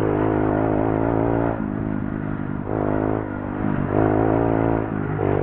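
Pit bike engine revving in surges, rising three times and easing off between.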